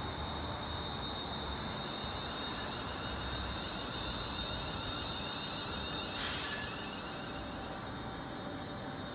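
Electric multiple unit moving slowly through the station with a steady high whine over a low rumble. About six seconds in there is a short, sharp hiss of released air from its pneumatic brake system.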